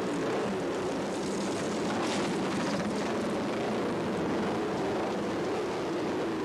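Flat-track racing motorcycle engines running hard, steady in pitch and level.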